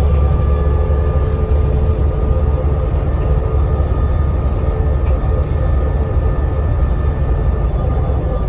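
Volvo B7TL double-decker bus's diesel engine running on the move: a deep drone with the turbocharger's high whistle over it, the whistle slowly falling in pitch.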